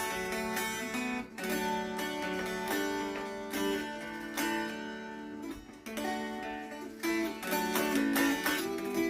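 Mountain dulcimer strummed in DAA tuning: a melody played over a steady held drone note.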